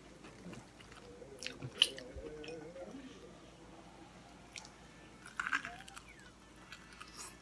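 A person biting into and chewing a crispy breaded, deep-fried sausage-and-cheese roll, with a few crisp crunches, the sharpest about two seconds in.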